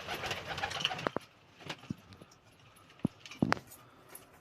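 Domestic pigeons cooing, with a rustling burst in the first second and several short sharp taps after it.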